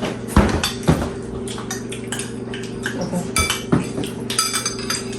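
Spoons and cutlery clinking and scraping against bowls and plates in irregular knocks throughout, over a steady low hum.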